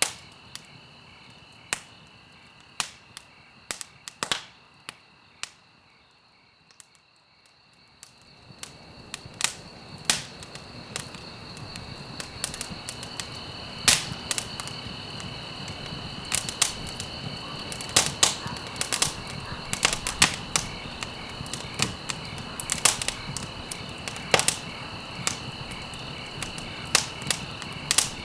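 Wood fire crackling in a fireplace: sharp, irregular pops and snaps. A quieter lull comes about six seconds in, then a steady hiss and denser crackling from about eight seconds on.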